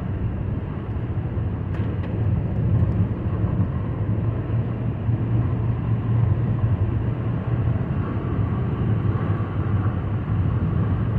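Steady road and tyre noise of a vehicle driving at speed, heard from inside the cab, with a constant low hum under it.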